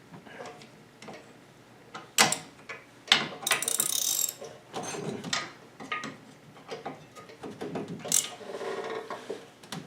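Hand tools and metal parts of a VW buggy front end clicking and clattering during repair work, with a dense run of rapid ratchet-like clicks about three seconds in and separate sharp knocks around it.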